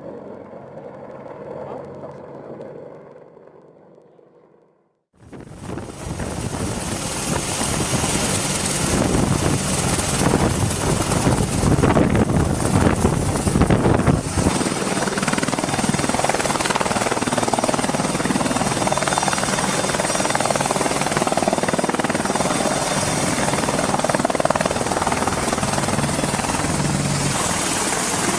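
A quieter sound fades out, and after a moment's silence about five seconds in, helicopter rotor and turbine noise cuts in abruptly and runs loud and steady.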